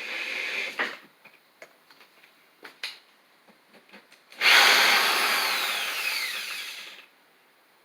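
Hammer drill running: a short run at the start, then a few clicks, then a longer run of about two and a half seconds whose whine falls in pitch as the motor slows before it cuts off.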